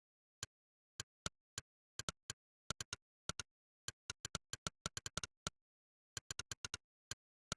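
Monkeytype's synthetic 'click' keypress sound, one short, sharp click per keystroke at an uneven typing rhythm of about four or five a second, with dead silence between clicks and a brief pause a little after five seconds in.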